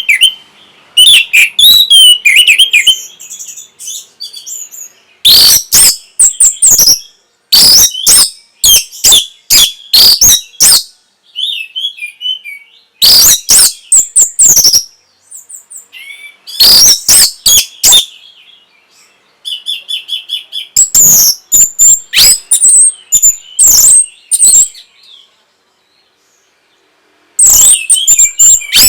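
Orange-headed thrush singing loud phrases of quick, varied whistled notes mixed with sharp rattling strokes. Each phrase lasts a second or two and is separated by short pauses, with a longer gap near the end.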